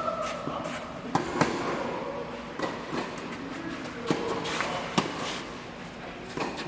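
Tennis rally: sharp pops of rackets striking the ball, together with ball bounces, at irregular intervals of about one to one and a half seconds. The loudest strike comes about a second and a half in, another about five seconds in.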